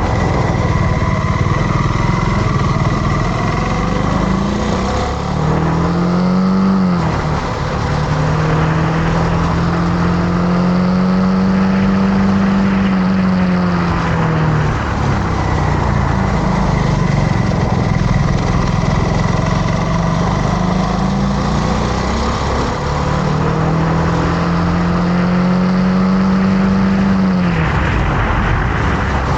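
Motorcycle engine running under way, heard from the bike. Its pitch climbs, holds and falls off several times with the throttle, dropping sharply about a quarter of the way in, around halfway and near the end.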